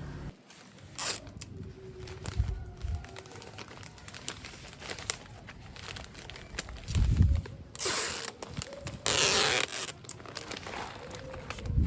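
Crinkling and rustling of plastic wrapping and snack packets being handled, in irregular spells with the longest about eight to ten seconds in, and a few soft thuds.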